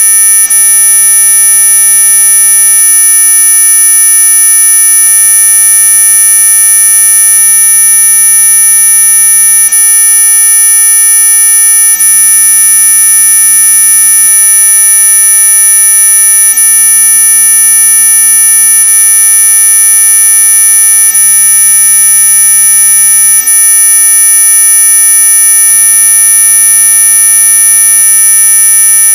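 Loud, steady, high-pitched electronic whine of a synthesized mosquito-repellent tone track: several pure tones sounding together, holding without change.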